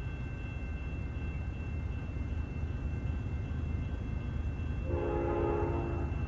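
CN freight train's diesel locomotives approaching with a steady low rumble. About five seconds in, the lead locomotive sounds one short air-horn blast lasting about a second.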